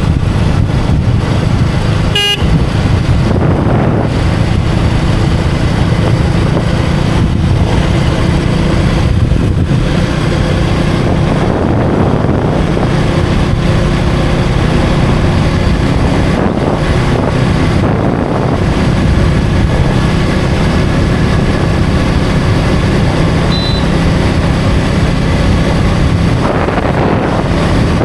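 KTM 250 Duke's single-cylinder engine running steadily under way, with wind noise over the microphone. A brief horn toot about two seconds in.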